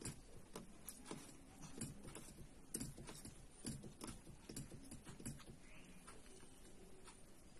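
Faint eating sounds: a run of soft, irregular clicks and smacks, about two a second.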